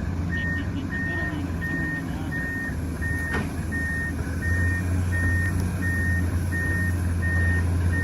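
A heavy diesel machine's reversing alarm beeps steadily, about three short high beeps every two seconds, over the low drone of its idling engine.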